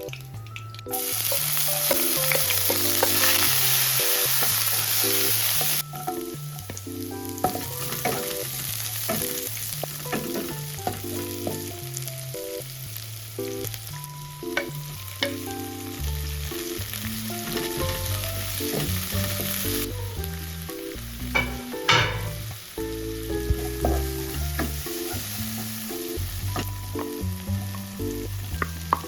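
Food sizzling as it fries in a pan. The hiss is loudest from about a second in until about six seconds, then carries on more quietly. Light background music plays under it.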